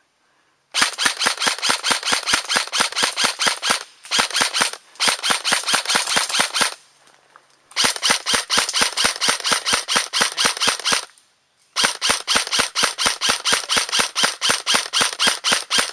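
Airsoft gun firing on full auto in five long bursts of evenly spaced sharp clicks, about eight shots a second.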